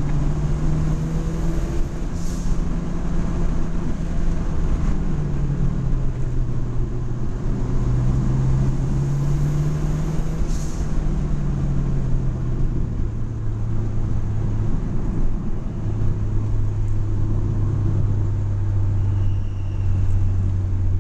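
Mitsubishi Lancer Evolution VI's turbocharged four-cylinder engine running steadily at a cruise, heard from inside the cabin over tyre and road noise. The engine note drops lower about two-thirds of the way through and stays there.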